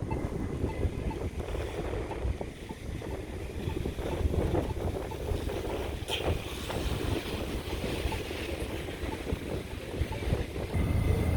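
Gusty wind buffeting the microphone, a fluttering low rumble over the hiss of heavy rain.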